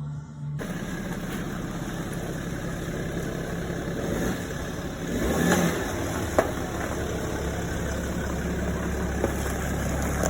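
Car engine running steadily, with a few brief knocks.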